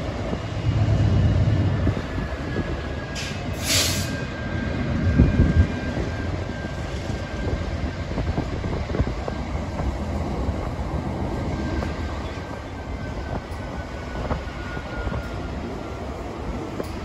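BNSF GE Dash 9-44CW diesel locomotive leading a double-stack freight train as it approaches slowly: a steady low rumble of engine and wheels on rail. A brief sharp hiss comes about three and a half seconds in.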